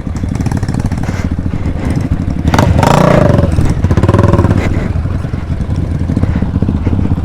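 Small dirt bike engine running steadily, getting louder about two and a half seconds in as it revs up and back down for a couple of seconds.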